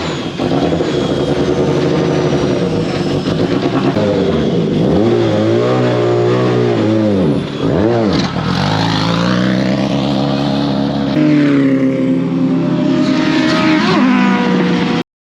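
400hp open-wheel race car's engine running hard, heard from on board. Its pitch swoops down and back up several times around the middle, then holds high again before cutting off suddenly near the end.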